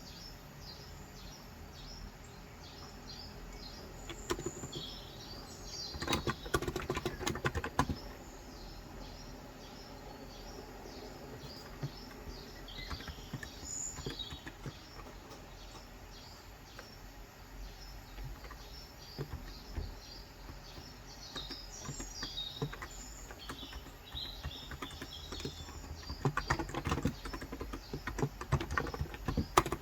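Birds chirping on and off throughout, over a low background hum. Bursts of fast typing on a Cox Endeavor electrocapacitive (non-contact) tenkeyless keyboard with 35 g switches come in about six seconds in and again near the end, with only scattered keystrokes between.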